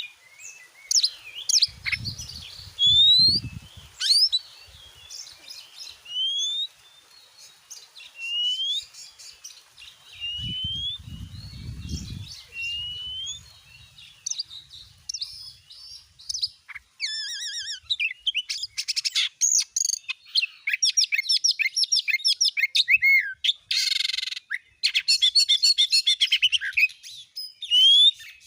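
Oriental magpie-robin singing: spaced, clear rising whistles at first, then about halfway through a fast, dense outpouring of varied whistles, trills and buzzy notes. Two brief low rumbles sound under the song early on and around the middle.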